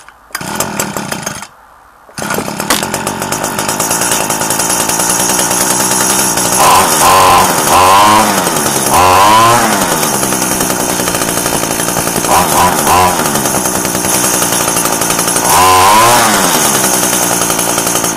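Echo SRM-2015 trimmer's 21cc two-stroke engine, cold and just off choke, fires briefly and then keeps running from about two seconds in. It idles, is revved up and down several times, and cuts off at the end.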